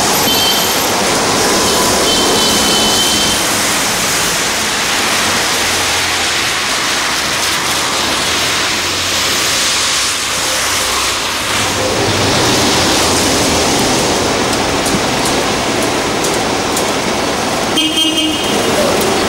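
Street traffic noise, steady, with short car-horn toots near the start and again near the end.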